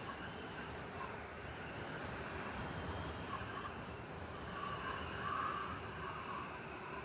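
City blizzard ambience: a steady rush of wind over a low rumble of traffic, with a higher hum that swells twice, about three and five seconds in.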